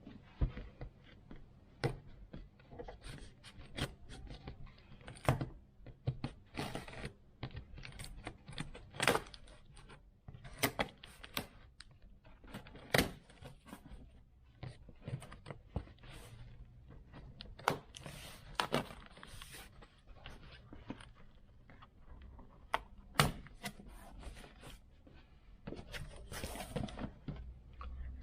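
Cardboard boxes and packaging being handled and opened: scattered knocks, scrapes and tearing at an irregular pace.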